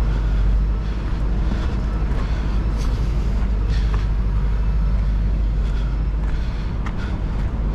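Idling diesel truck engine, a steady low rumble.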